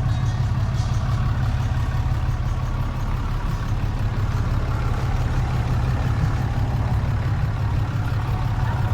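Truck engine running steadily, a low, even drone.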